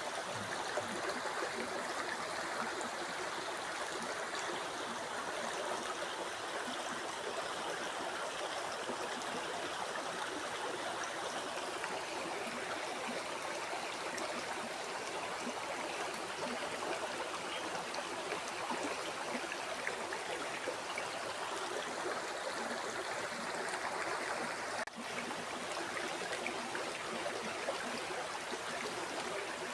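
River water flowing and babbling steadily over rocks, with a brief dropout about twenty-five seconds in.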